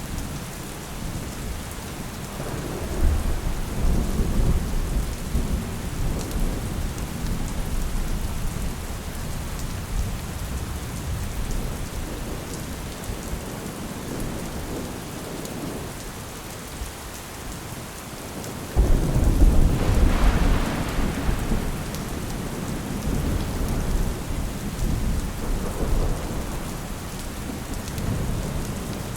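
Steady rain with two rolls of thunder: one swells about three seconds in and rumbles for several seconds, and a louder one breaks suddenly about two-thirds of the way through, then rumbles away.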